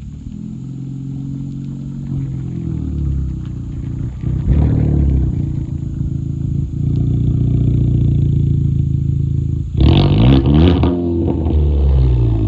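Exhaust of a Kia Forte GT's turbocharged four-cylinder running with the muffler and secondary catalytic converter deleted. The engine note rises and falls, with a surge about four seconds in and a louder, sharper burst of revs near ten seconds.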